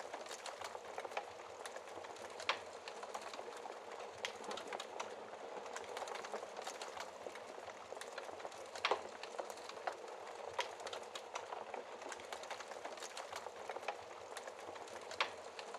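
Wood fire in a fireplace crackling steadily, a dense run of small snaps with a few louder pops, about four of them.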